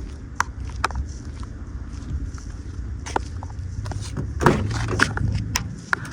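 Footsteps with scattered clicks and scrapes over a steady low rumble, with a louder cluster of clicks about four and a half seconds in.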